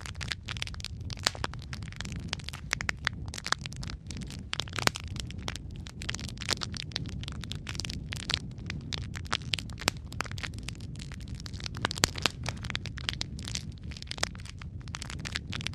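Wood fire burning in a fireplace: a low steady rumble of flame with dense, irregular crackles and pops, a few sharper snaps standing out.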